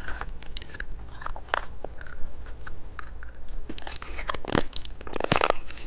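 Someone chewing and crunching candy close to the microphone, with irregular crisp crackles and clicks that come thicker near the end.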